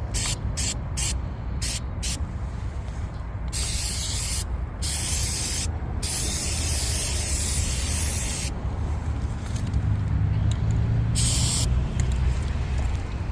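Aerosol can of JS685 ant insecticide spraying in bursts: several quick puffs at first, then longer sprays of a second to a few seconds each, and one short puff near the end. A steady low hum runs underneath.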